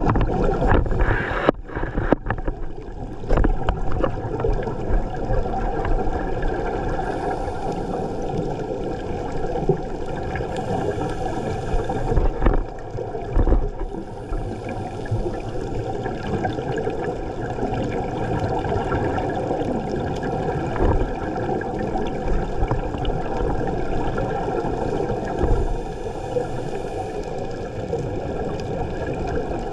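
Muffled underwater noise picked up by a submerged camera: a steady gurgling wash of water, with a few sharp knocks in the first seconds and louder surges about halfway through and again near the end.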